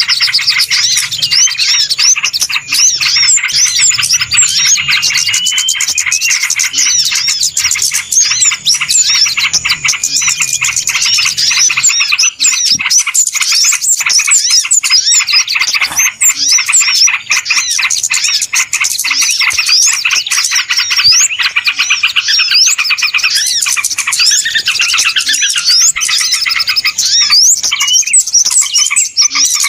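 A loud, dense chorus of many small birds chirping and twittering at once, the fast, high calls overlapping without a break: a 'noisy' bird-lure recording made to draw small birds in.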